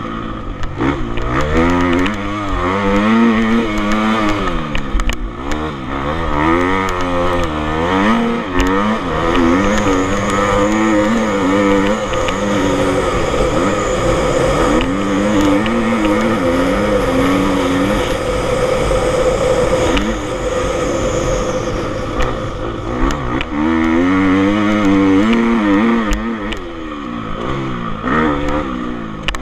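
Motocross motorcycle engines revving on a dirt track, the pitch climbing and dropping over and over as the bikes accelerate and shift, with a steadier, held engine note through the middle.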